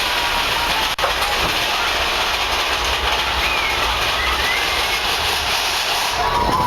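Big Thunder Mountain Railroad mine-train roller coaster running along its track: a steady rumble and clatter of the train's wheels on the rails.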